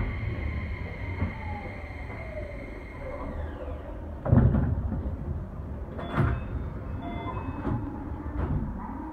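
Keio 5000-series electric train's motor whine falling in pitch as it brakes to a stop, fading out about three seconds in. About a second later comes a loud burst of air and door noise as the doors slide open, followed by clunks and short chime tones.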